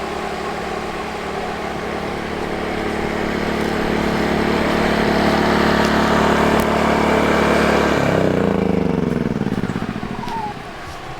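Wen 2000 generator running at full speed alongside a 12-volt rooftop air conditioner, then switched off about eight seconds in: its engine winds down in pitch over a couple of seconds and stops, leaving the air conditioner's fan running steadily.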